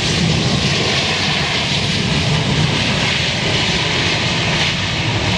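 Jet airliner's engines heard close by: a steady, loud rush of engine noise over a low rumble.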